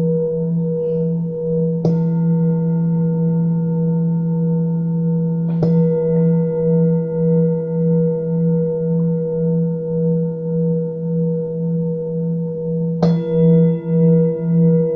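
Singing bowls ringing with a low, pulsing hum and several higher overtones. A bowl is struck three times, about two, five and a half and thirteen seconds in, and each strike brightens the ringing before it fades back into the sustained tone.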